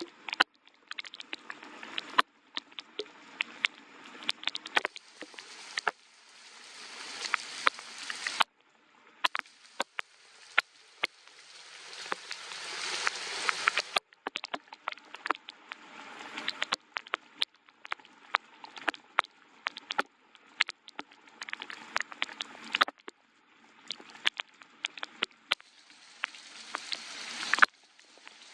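Soft rain with many separate drops ticking sharply on a hard surface, in stretches that swell and then cut off abruptly several times.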